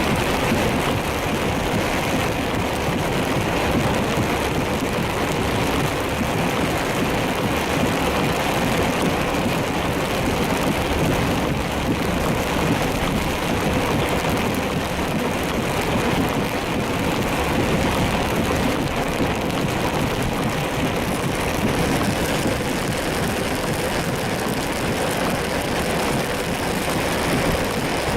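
Steady noise inside a car driving through heavy rain: road and engine noise with tyres on the wet road and rain on the car.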